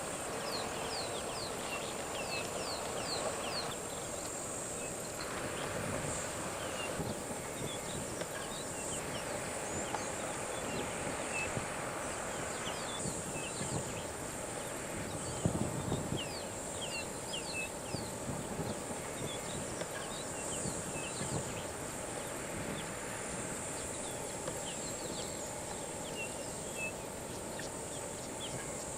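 Outdoor bush ambience: many short, high chirps scattered throughout over a steady high hiss, with a brief low thump about halfway through.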